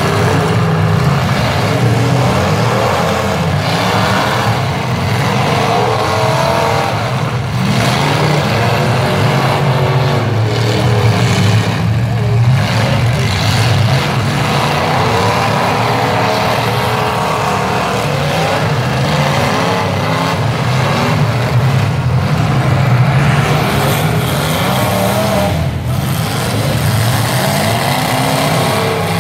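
Several demolition derby cars' V8 engines running hard together, revving up and down continuously as the cars accelerate and ram each other.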